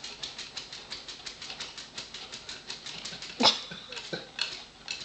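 A dog digging with its front paws: a fast, even run of scratching strokes, about five a second. There is one short loud sound about three and a half seconds in, and the strokes fade near the end.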